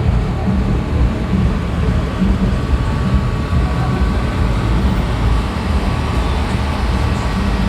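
Engines of classic cars cruising slowly by, a steady low engine sound.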